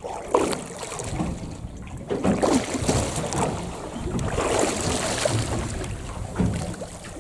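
Wind buffeting the microphone and water lapping against the hull of a small boat, with a few light knocks.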